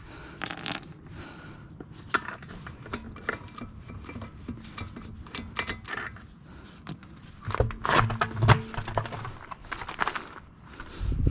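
Metal parts and tools being handled while working on a car wheel: irregular clinks, knocks and scrapes, with a louder run of knocks about eight seconds in.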